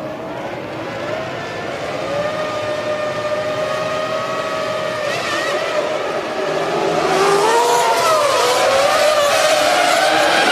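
Several Formula One 3.0-litre V10 engines running and revving on the starting grid, several pitches rising and falling over one another; the sound grows louder and busier from about seven seconds in.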